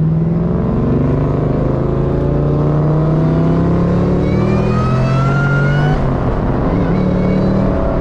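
Ford Mustang V8 accelerating hard under load, its engine pitch climbing steadily. About six seconds in it drops at an upshift and starts climbing again.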